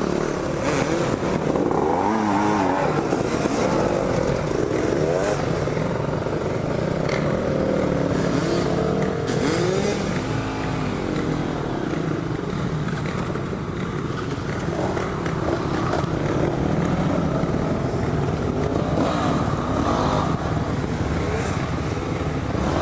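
Dual-sport motorcycle engine running, its pitch rising and falling again and again with revs.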